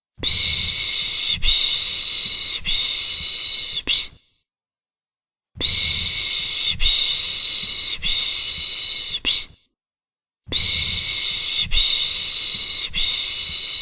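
A person making the soothing 'shhh' shushing sound used to calm a baby: three long hissing shushes of about four seconds each, with short silent pauses between them, each pulsing slightly about once a second.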